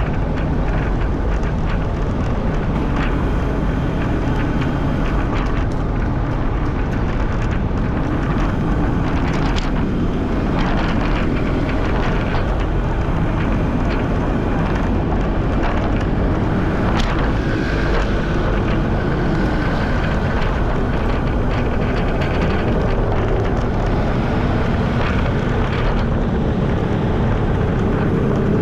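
Steady wind rush on a GoPro Hero 10's microphone while riding a bicycle, mixed with the sound of passing motor traffic.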